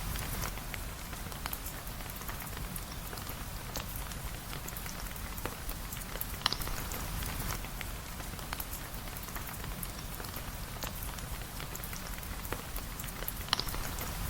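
Steady rain with a wood fire crackling beneath it: a constant hiss dotted with small clicks, and a sharper pop about halfway through and another near the end.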